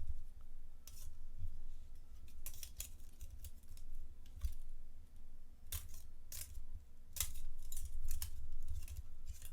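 Thin metal plates of a flat-pack mini fire pit being handled, clinking and tapping against each other in a dozen or so irregular clicks.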